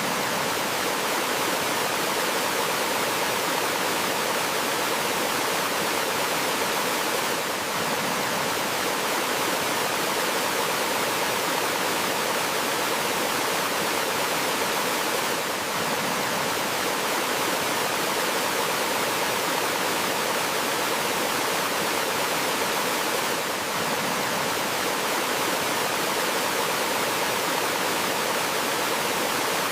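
Water rushing steadily over rocks in a forest stream, an even hiss with no breaks.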